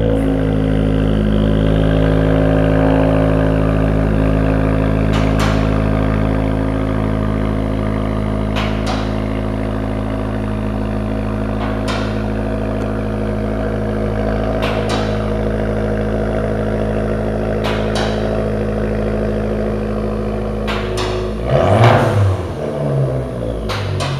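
Fiat 500 Abarth's turbocharged 1.4-litre four-cylinder idling steadily through an aftermarket exhaust with the tips in the stock position, then revved twice quickly near the end.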